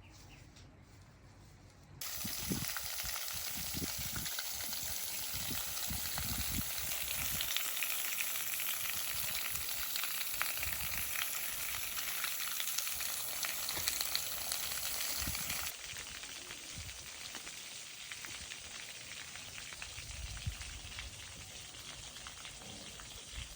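A dense, crackling, spattering hiss of falling or spraying water, like rain on a surface. It starts suddenly about two seconds in, runs loud and steady, then drops to a lower level a few seconds after the middle and continues.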